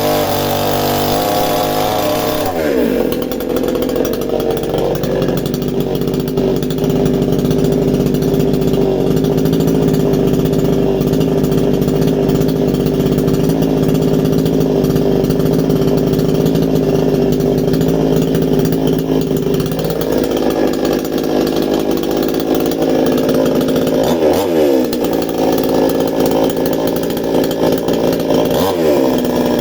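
Chainsaw engine running hard while cutting into a wooden stump. Its pitch drops sharply about two and a half seconds in as the chain bites and holds steady under load. Near the end it revs up and down quickly twice.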